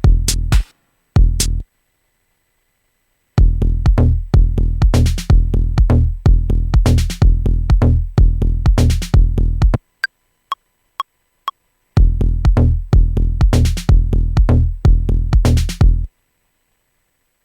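Dub-techno drum-machine groove from Maschine 2.0, with a deep repeating kick and bass. Playback stops and starts several times. In one gap a four-beat metronome count-in of short beeps sounds, the first beep higher, before the loop comes back in. The groove stops about a second before the end.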